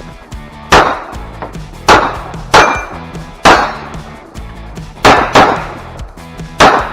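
9mm Glock 34 pistol firing about seven shots at an uneven pace, a pair close together then single shots spaced up to a second and a half apart, each shot cracking and ringing out briefly.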